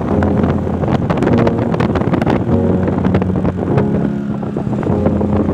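Motorcycle engine running steadily at speed, with wind buffeting the microphone.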